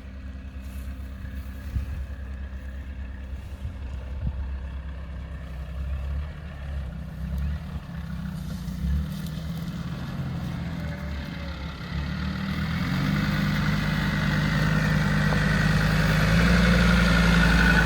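A 4x4 off-roader's engine running steadily, then getting louder and harder-working from about twelve seconds in.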